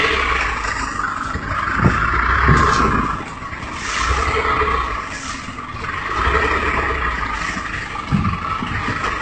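A car driving, with engine and road noise that swells and eases every second or two.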